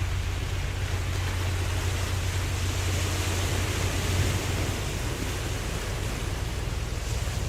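Ocean waves washing steadily: a continuous surf hiss with a low rumble underneath.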